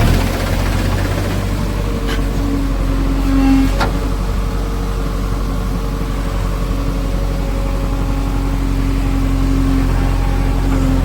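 Diesel engine of heavy earth-moving or farm machinery running steadily, with a brief swell about three and a half seconds in and two short sharp knocks around two and four seconds in.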